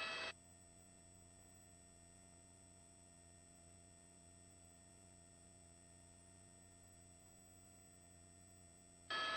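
Near silence on the helicopter's headset intercom feed. A steady hum of several tones is heard for a moment at the very start and again for about half a second near the end, as the intercom microphone channel opens.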